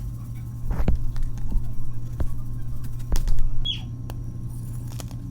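Reformed gym chalk being crushed: several sharp crunches and cracks, the loudest about three seconds in, over a steady low hum. A short high falling chirp comes a little past the middle.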